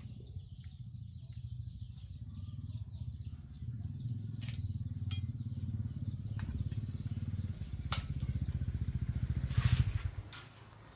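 Honda GX200 single-cylinder four-stroke engine running with an even, rapid pulsing beat, a brief louder burst just before it stops about ten seconds in.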